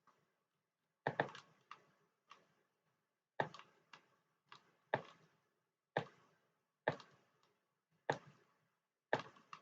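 Computer mouse buttons clicking, about a dozen sharp single clicks at irregular intervals, some in quick pairs.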